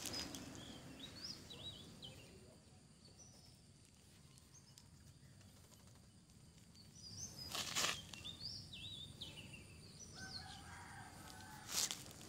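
Faint outdoor ambience of birds chirping, short high calls that slide quickly in pitch, heard in bursts early on and again later, with a longer, lower, steadier call from about ten seconds in. Two brief sharp noises stand out, one past the middle and one near the end.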